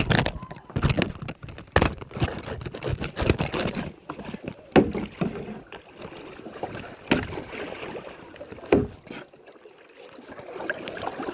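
Kayak paddling: paddle blades dipping and splashing in the water, with irregular knocks and splashes, busiest in the first few seconds.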